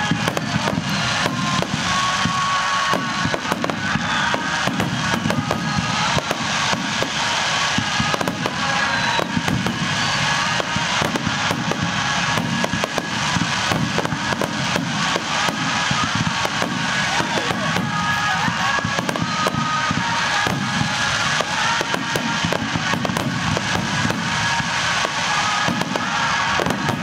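Fireworks barrage: aerial shells bursting in many bangs in quick succession, with music playing underneath.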